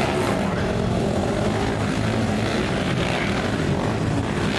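Racing quad (ATV) engines running together, a continuous steady drone.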